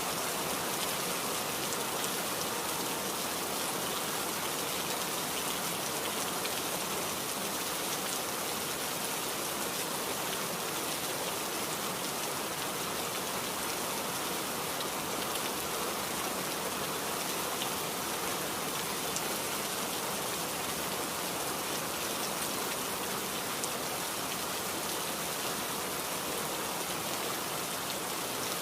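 Steady rain falling, a dense even patter of drops with scattered sharper drop ticks.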